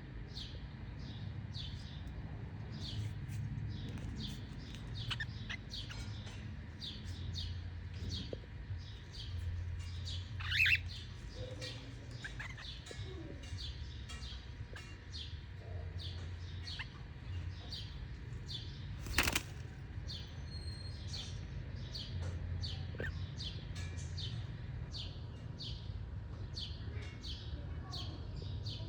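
Cockatiels chirping in a steady run of short high calls, about two a second, with a sharp click about two-thirds of the way through.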